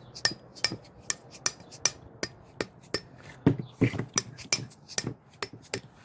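Repeated sharp metallic taps, about two to three a second, some with a brief high ring: a metal part being knocked against a hard surface to shake loose a piece stuck inside it.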